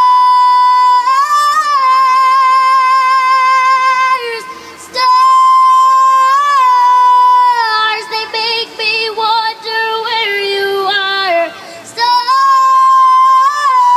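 Female singer holding long high notes with vibrato, broken by a brief pause about four seconds in and a quick run of ornamented notes in the middle, then a long held note again near the end.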